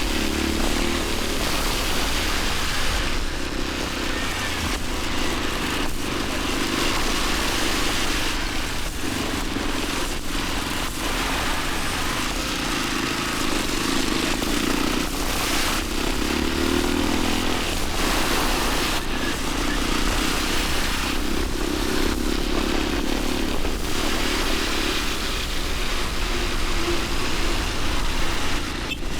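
Motorcycle engine running under way, its note swelling and easing every few seconds as the throttle changes, over a steady rush of wind on the action camera's microphone.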